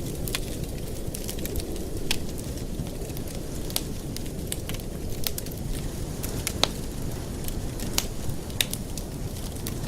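Wood fire burning in a fireplace: a steady low rumble of the flames with irregular crackles and sharp pops from the burning logs, a few louder snaps among them.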